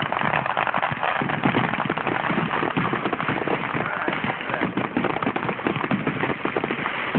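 Fireworks crackling and popping in a dense, continuous run of rapid small bangs, with no let-up.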